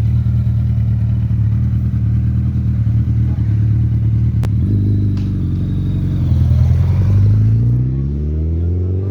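Superbike engines idling steadily. About halfway in a second engine joins, and over the last couple of seconds one engine's pitch climbs steadily as it is revved.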